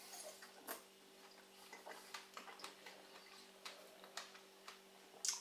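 Faint, irregular wet clicks and smacks of people biting into and chewing fresh strawberries, with a slightly louder click near the end, over a faint steady hum.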